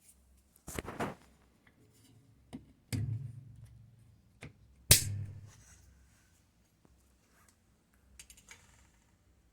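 A few separate knocks and clunks, as of hard parts being handled and set down. The loudest and sharpest comes about five seconds in, with a short low ringing after it, and there are light clicks near the end.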